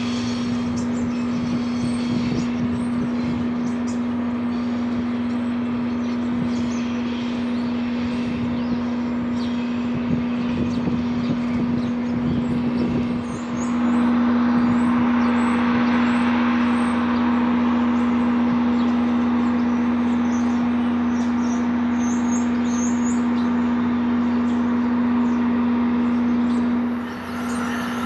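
Train at a station giving off a steady electrical hum, with low rumbling in the first half and a louder rush of noise from about halfway. Birds chirp throughout.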